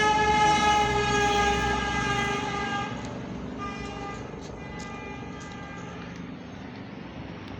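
Car horn sounding a steady single-pitched blast of about three seconds. About a second later a second, fainter blast lasts about two seconds.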